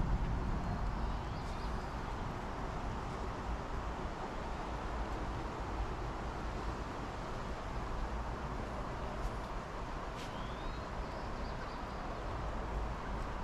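Steady outdoor background noise with a low rumble, and a few short rising bird chirps, one near the start and one about ten seconds in.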